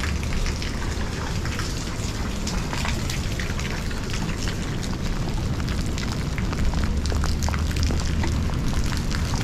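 Rain falling steadily, with many sharp drop clicks over a steady low rumble.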